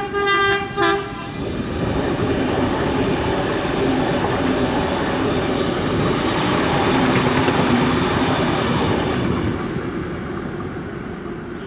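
A Sydney D set (Mariyung) intercity electric train sounds two short horn blasts, the second shorter. It then passes through the station without stopping, its running noise building to a peak about two-thirds of the way through and fading near the end.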